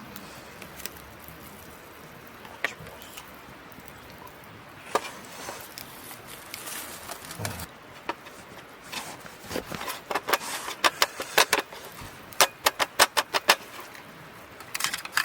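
Short, sharp clicks and taps, a few scattered at first, then a quick run of about ten of them a little over twelve seconds in.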